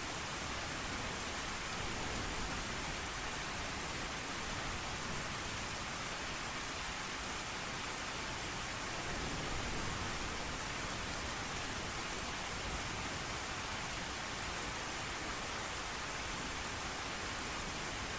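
Steady rain, an even hiss with no break and a slight swell about halfway through.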